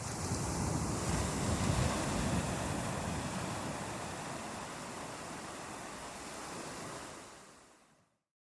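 Ocean surf: a wave surges in and is loudest in the first two or three seconds, then slowly washes back and dies down. The sound fades out to complete silence near the end.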